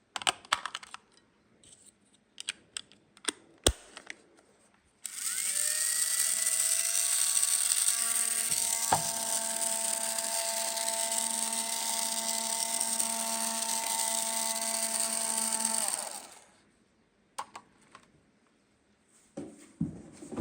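A few light plastic clicks and taps, then a small electric motor whirs up about five seconds in. It runs steadily for about eleven seconds and winds down, followed by a few more clicks.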